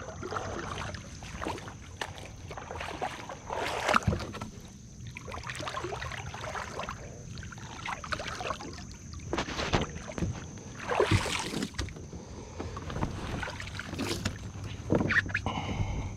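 Kayak out on a creek: irregular water splashes and paddle or gear knocks against the hull, coming every second or two.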